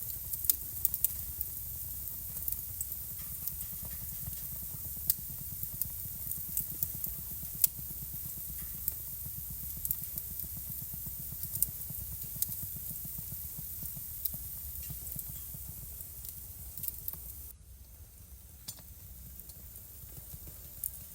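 Wood fire crackling in a fireplace: irregular sharp pops and snaps over a steady low rumble and hiss. The whole sound drops suddenly to a softer level about three-quarters of the way through, with a few pops after.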